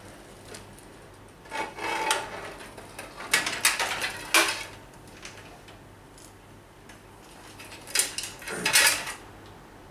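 Clunks, knocks and rattles of a drive-bay reservoir and pump combo being worked loose and pulled out of a PC case, in three bursts: about a second and a half in, from about three to four and a half seconds, and near the end.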